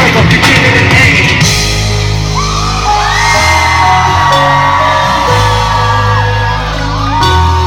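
Live band music playing on after the song's last vocal line: held bass notes and long sustained guitar or synth notes that slide up into pitch. A crowd yells and whoops over the first second or so.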